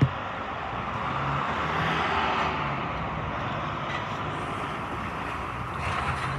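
Strong gusty wind rushing, swelling about two seconds in and easing off, with a single sharp knock at the very start.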